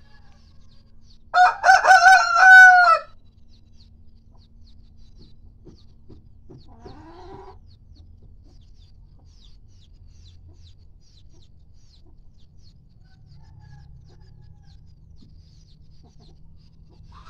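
Kampung rooster crowing once, a loud cock-a-doodle-doo of about a second and a half starting about a second in. A faint short cluck follows about seven seconds in.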